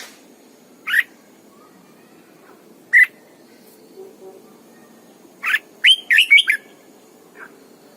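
Red-whiskered bulbul calling: single short notes about a second and three seconds in, then a quick run of five or six whistled notes past the middle, and a faint note near the end.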